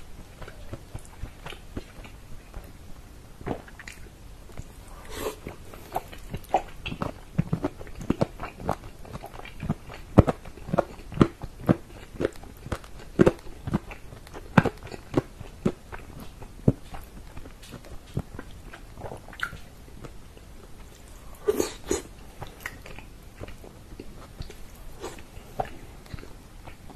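Close-miked chewing of tender pressure-cooked chicken in tomato sauce: a run of wet mouth clicks and smacks, thickest in the middle, with a short, louder cluster a few seconds before the end.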